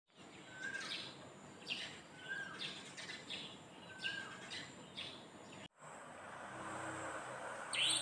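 Small birds chirping repeatedly: short high chirps sweeping downward, about one a second, with a brief lower whistled note three times among them. The sound cuts out abruptly a little past halfway. It comes back as an even background hiss that swells, with one more chirp near the end.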